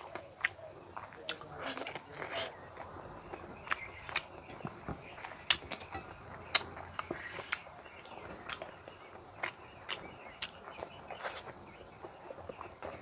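Mouth sounds of eating boiled duck egg in curry by hand: wet chewing and lip smacks, with many short, sharp clicks at an irregular pace.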